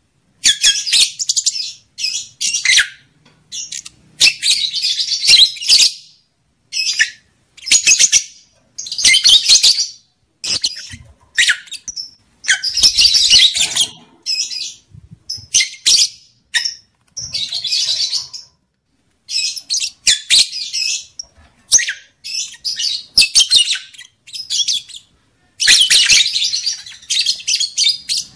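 Lovebird chattering in rapid, high-pitched bursts, each a fraction of a second to about a second long, broken by short pauses.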